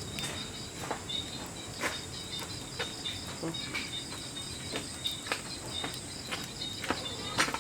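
Wood fire crackling with irregular sharp pops, over a steady high pulsing chirp of crickets; the loudest pop comes near the end.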